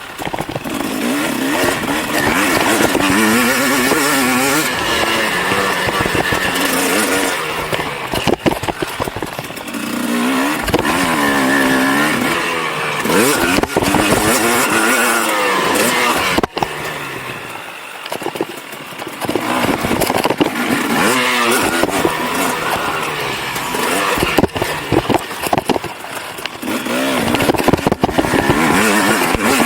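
KTM SX 250 two-stroke motocross bike, bored out to 300 cc, revving hard up and down as it is ridden, with the engine pitch rising and falling again and again and easing off briefly about two-thirds of the way in. Heavy rattling and clicking comes from the camera shaking loose in its housing.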